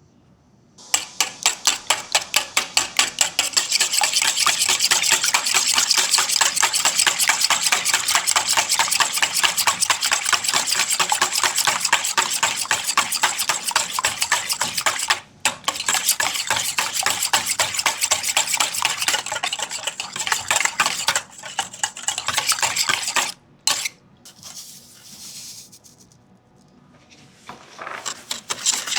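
Hand mixing in a bowl: a utensil beats against the bowl in fast, even strokes, about four a second at first, then faster and denser. There is a brief pause about fifteen seconds in. The strokes stop about 23 seconds in, a few quieter scrapes follow, and the mixing starts again near the end.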